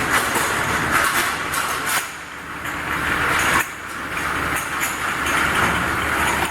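Double-track bottle washing machine running: a steady mechanical noise that dips briefly about two seconds in and again about a second and a half later.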